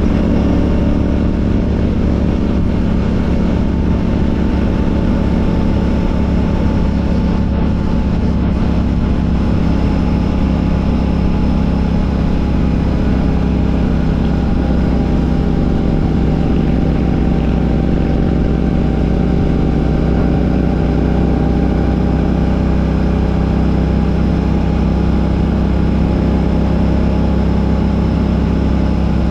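Royal Enfield Classic 650's parallel-twin engine running through an aftermarket Ngage exhaust while riding, holding a fairly steady speed with the pitch shifting only slightly.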